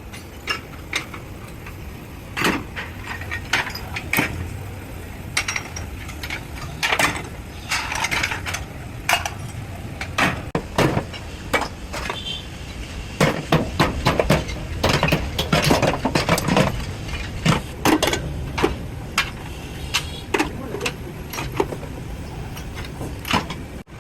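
Irregular metal clanks and knocks, as of steel pieces and tools being struck and handled, coming thickest through the middle, over a steady low machine hum.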